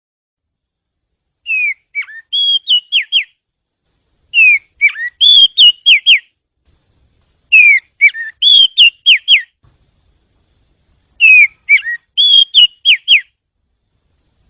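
Oriental magpie-robin (kacer) singing: four clear whistled phrases about three seconds apart, each a falling slurred whistle followed by a short run of quick downslurred notes.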